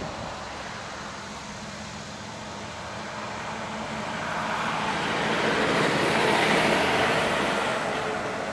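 Zero-turn lawn mower's 22 hp Briggs & Stratton engine running steadily. It grows louder to a peak about six seconds in, then eases off.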